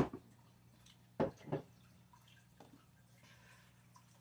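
Items such as drink cans and bottles being handled and moved around inside a mini fridge: a sharp knock at the start, then two more knocks a little over a second in, over a steady low hum.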